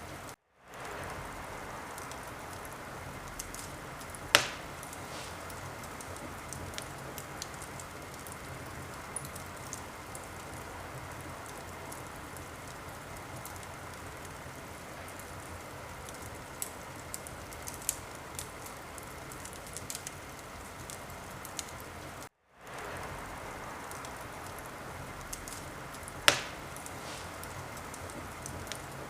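Wood fire burning with a steady hiss and scattered small crackles, and two sharp louder pops, one about four seconds in and one near the end. The sound cuts out to silence for a moment twice, once just after the start and once about twenty-two seconds in, each time fading back in.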